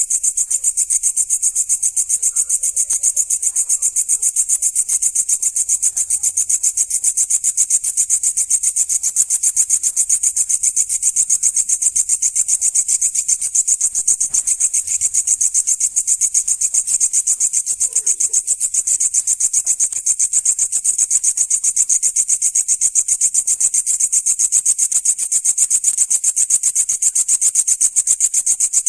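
Grasshopper-type insect singing at night: a loud, continuous, high-pitched rasping made of fast, evenly spaced pulses, holding steady without a break.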